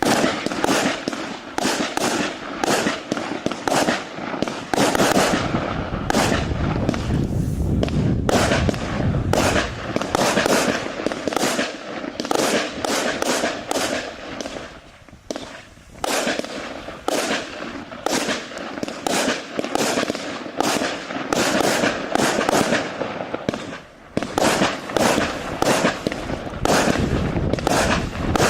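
A 116-shot, 0.8-inch-calibre consumer firework cake (battery) firing, its shots going off in quick succession, several a second, with brief lulls about 8, 15 and 24 seconds in.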